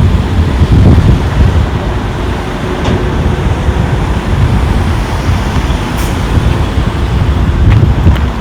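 Wind buffeting the microphone in a loud, uneven low rumble, over a steady haze of street traffic noise, with a sharp click about six seconds in.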